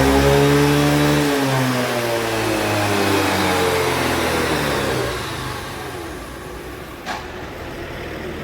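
Yamaha RayZR scooter's single-cylinder engine revving up and easing back for about five seconds, then falling to a lower, quieter run. A single sharp click about seven seconds in.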